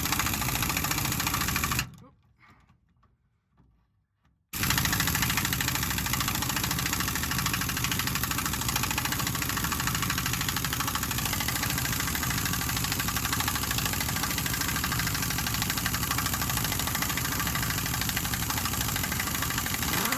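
Impact wrench hammering as it backs off a rear shock-absorber mounting bolt: a short burst of about two seconds, a pause, then a long steady run of about fifteen seconds.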